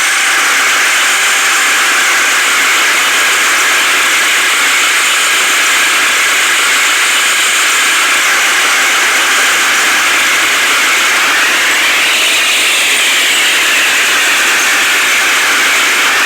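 Loud, steady running noise of a heavy vehicle's engine, with a brief rise and fall in pitch about twelve seconds in.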